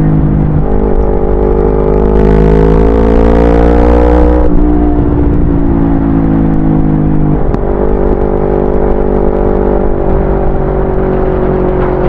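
Yamaha YZF-R25's 249 cc parallel-twin engine under way, pulling up through the revs for a few seconds, then dropping sharply in pitch on a gear change about four and a half seconds in; it cruises on a slowly falling note, with another short break in the sound near seven and a half seconds.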